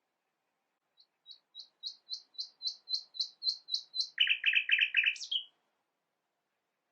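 A songbird singing one song: a series of about eleven high notes that grow louder, then a faster, lower trill ending in a short flourish, lasting about four and a half seconds.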